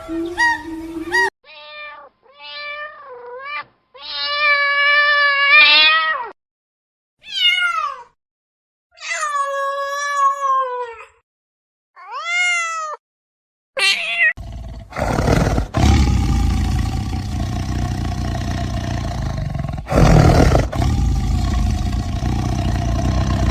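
Domestic cat meowing, about five separate meows that rise and fall in pitch. About halfway through, a loud, rough, noisy sound with a deep rumble takes over and runs on.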